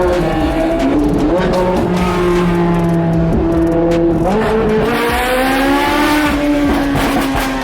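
Supercar engines accelerating and changing gear, their notes stepping and gliding up and down in pitch, with a long rising pull from about four seconds in that drops back near six seconds.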